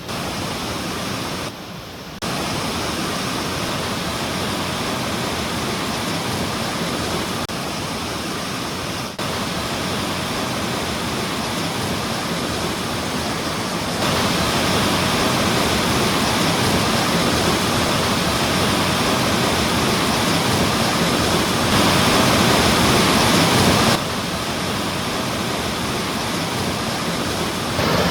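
Mountain valley stream running full after rain: a steady rush of water over rocks. Its loudness steps up or down abruptly a few times.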